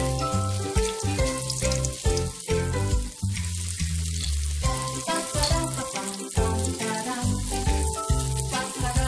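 Flour-coated tofu cubes sizzling as they shallow-fry in oil in a pan, heard under background music with a bass line and melody.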